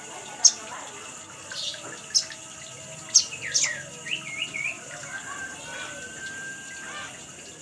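Spiderhunter (sogon) calls: several sharp, high, down-slurred chirps, then a short wavering phrase and a level whistle held for about two seconds.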